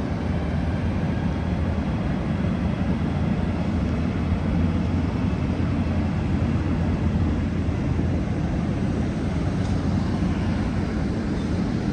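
Amtrak passenger train departing behind a Siemens SC44 Charger diesel locomotive: a steady low rumble of engine and wheels on the rails.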